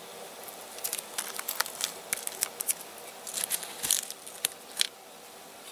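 Masking tape being peeled off a freshly spray-painted diecast toy: a run of irregular sharp crackles and tearing for about four seconds, then stopping.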